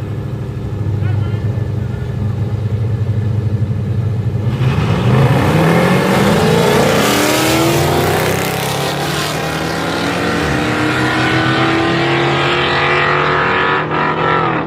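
Two street-race cars running at the line, then launching about four and a half seconds in and accelerating hard, their engine pitch climbing steadily for about ten seconds before the sound drops off sharply near the end.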